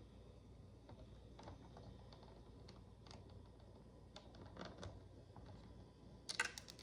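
Faint, scattered clicks of tiny plastic micro bricks being handled and pressed together, with a quick rattle of several clicks near the end.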